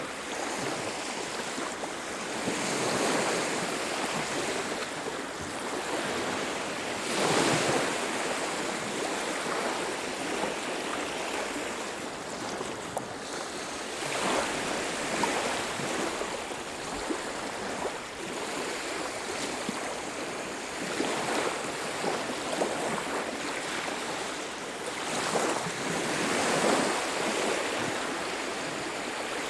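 Ocean waves breaking and washing up a beach, the surf swelling and falling back every few seconds, with a steady hiss between breakers.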